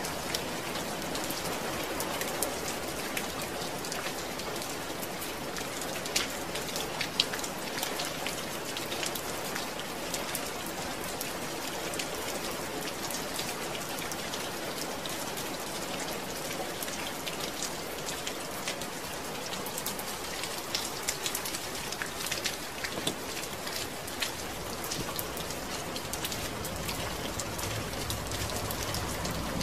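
Steady rain falling, a continuous hiss with the patter of individual drops.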